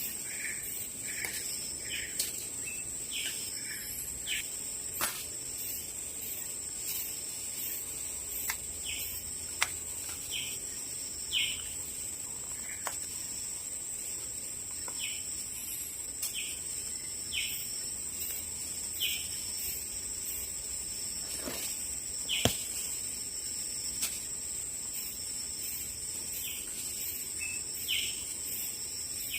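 Tropical forest ambience: a steady high-pitched insect drone, with short falling bird calls repeating every second or so and a few sharp clicks.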